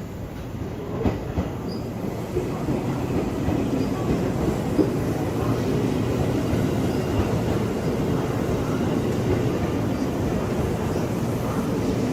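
A train running on the rails, the wheels clacking over rail joints, the rumble growing louder over the first few seconds as it gathers speed.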